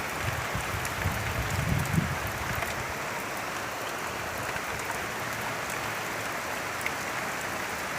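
Heavy rain falling in a steady hiss, with a low rumble in the first two seconds or so.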